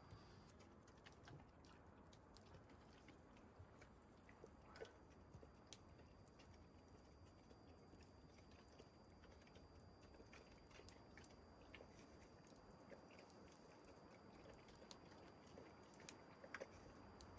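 Near silence, with faint small clicks and ticks scattered irregularly throughout.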